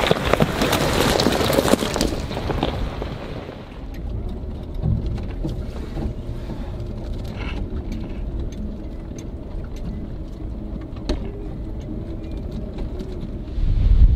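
Jeep driving slowly along a rough backcountry track: a low, steady hum with scattered sharp clicks and knocks. Wind buffets the microphone for the first two seconds and comes back suddenly near the end.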